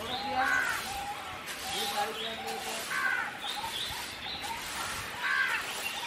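Birds at a nesting colony giving several short calls, spaced a second or more apart, over a steady outdoor hiss.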